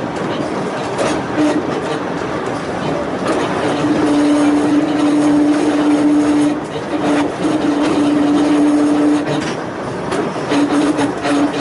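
Volk's Electric Railway car running along its narrow-gauge track. A steady whine comes and goes over the rolling noise, with sharp clicks of the wheels over the rail joints.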